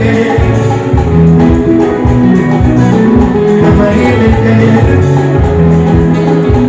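Live band music played loud through a sound system, with plucked electric guitar lines over a steady drum beat.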